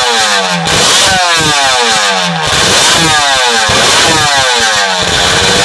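Suzuki RG500 sprint bike's two-stroke square-four engine being revved hard in repeated throttle blips, each one dropping straight back. It settles to a steadier, lower run about five seconds in.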